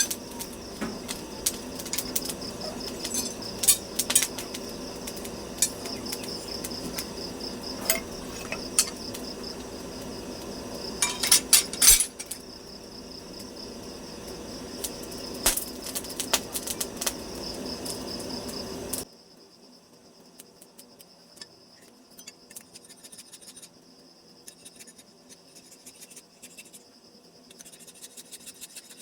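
Scattered light metallic clinks and taps over a steady, pulsing high chirr. A low hum under them cuts off suddenly about two-thirds of the way through, leaving the clinks and the chirr fainter.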